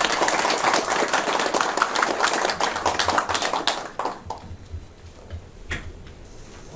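Applause from a room of people, many hands clapping for about four seconds and then dying away, leaving a few stray knocks.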